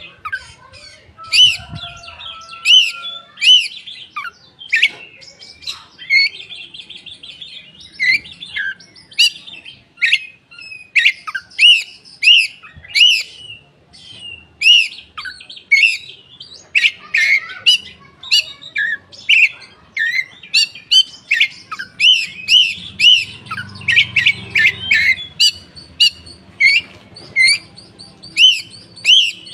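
Several koci birds calling together: a busy stream of short, sharp chirps repeated about every half second, with a quick trill a few seconds in.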